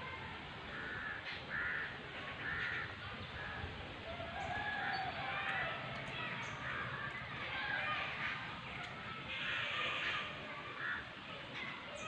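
Birds calling repeatedly: short separate calls, often one every second or so, some overlapping, over a steady low outdoor background.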